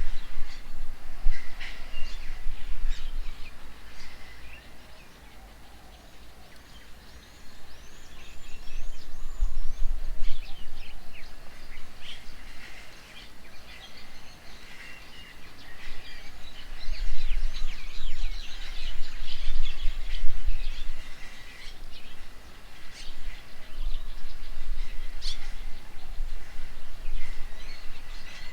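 Several songbirds chirping and calling together, a busy overlapping mix of short rising and falling notes that thickens in the second half. A low rumble swells and fades beneath them, loudest about two-thirds of the way through.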